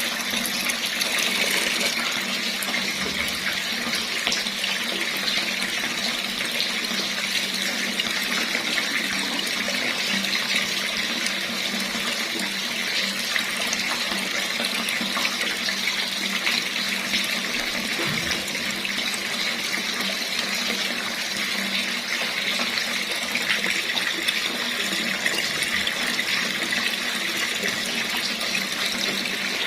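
Water running steadily from a tap, a constant rushing splash.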